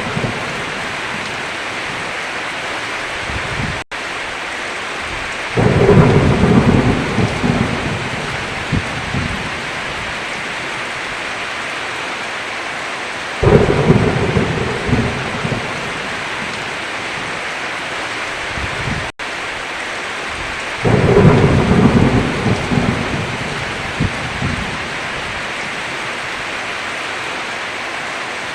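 Steady heavy rain with thunder rumbling three times, each rumble starting suddenly and fading out over a few seconds. The rain cuts out for an instant twice.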